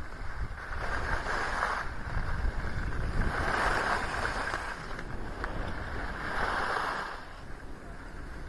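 Skis carving and scraping over snow in three turns, each a swell of hiss, over a steady low rumble of wind on the microphone.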